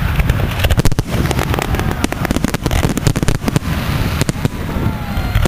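Firework display: rapid volleys of sharp bangs and crackling over a continuous low rumble, densest through the first two-thirds.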